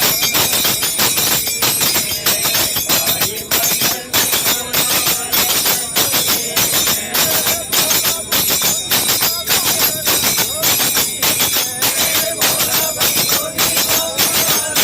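Live music with jingling hand percussion beating a steady rhythm of about two strokes a second, and faint singing under it.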